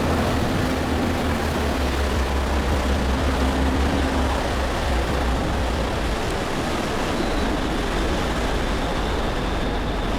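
NYC Ferry running on the river: a low engine drone under steady rushing water and wind noise, the drone dropping away about halfway through.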